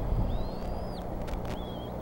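High, thin bird whistles: a long rising slur that drops sharply at its end, then a shorter, level whistle. Under them runs a steady low rumble, with a low bump just after the start.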